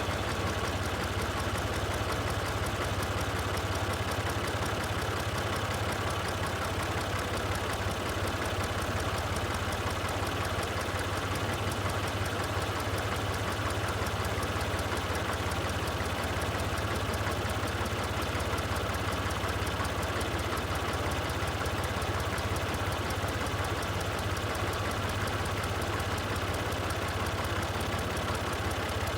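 Tractor engine running steadily at an even pitch and level throughout.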